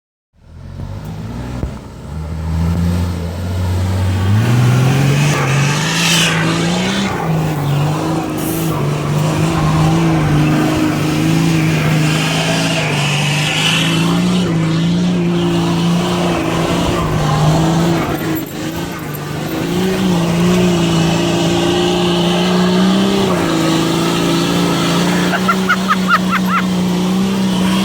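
Chevrolet Silverado's MWM six-cylinder turbo diesel running through a 4-inch straight exhaust, revving up over the first few seconds and then held at high revs with small rises and dips.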